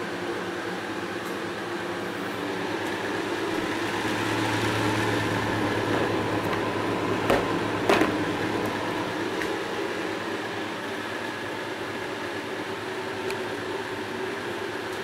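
Electric fan motor of a homemade air cooler running steadily, a constant hum and whir that swells slightly in the middle, with two sharp clicks about seven and eight seconds in.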